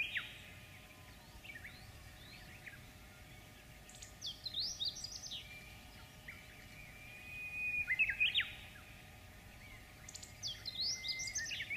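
A songbird singing: about five short phrases of quick chirps and whistled notes, a couple of seconds apart, over faint steady background hiss.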